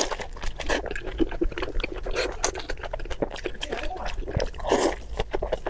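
Close-miked eating: wet chewing and lip-smacking, a quick string of small moist clicks, with a louder wet smack near the end.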